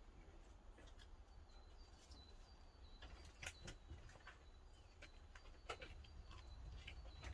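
Near silence: a faint, steady low rumble with a handful of sharp pops, typical of pine firewood crackling in a wood-fired kiln, and faint high-pitched chirps repeating over it.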